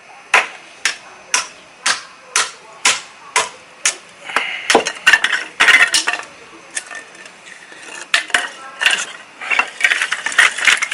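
Hinoki (Japanese cypress) kindling being split by repeated strikes, about two a second. Then a denser, irregular clatter of knocks as the splitting goes on and the pieces are handled.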